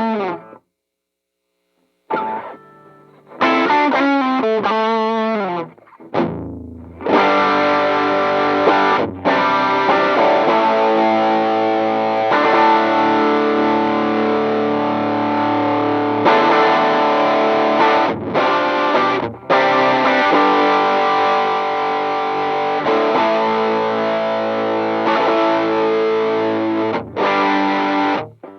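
Electric guitar played through a Demonfx King Spark overdrive pedal, a clone of the PiggyFX Flashdrive, giving a distorted tone. After a short pause come picked notes and a falling slide about six seconds in, then ringing chords broken by a few brief stops.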